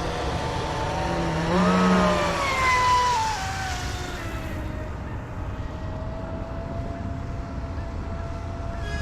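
Pro Boat Sonicwake 36 RC boat's electric motor whining as it runs on the water. Its pitch climbs as the throttle opens about a second and a half in, glides back down over the next few seconds, then holds a steady lower whine over a hiss of water.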